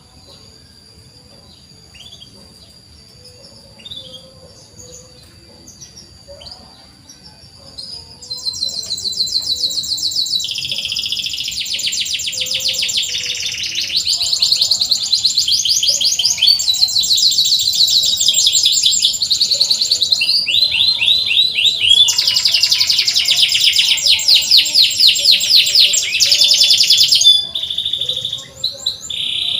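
Domestic canary singing. A few faint chirps come first, then about eight seconds in a loud, continuous song of rapid trills and chirping phrases begins and runs on, changing phrase every few seconds.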